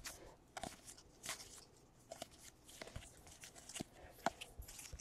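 Faint, scattered clicks and rustles of trading cards being flipped through by hand.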